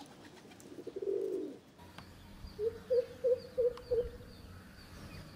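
A bird calling a run of short, low hooting notes at one pitch, about three a second, starting about halfway through.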